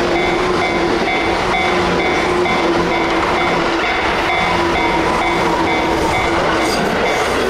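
Tobu Tojo Line stainless-steel electric commuter train passing close by: loud, steady rumble of wheels on rail with a regular clickety-clack, and a steady low hum that stops near the end.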